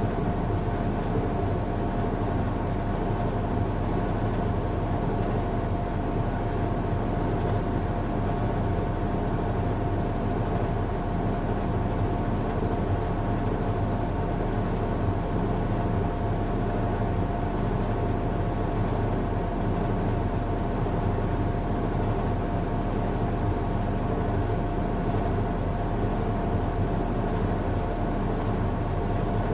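Washing machine running on a strong cycle: a steady low rumble with a constant hum, unchanging throughout.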